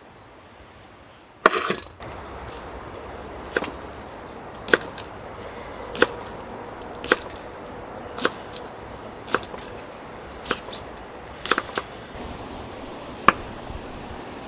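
Repeated sharp chopping knocks on wood, about one a second after a louder first stroke.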